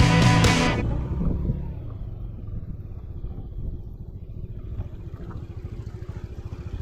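Motorcycle engine running steadily with a low, fast-pulsing rumble. The tail of background music fades out in the first second.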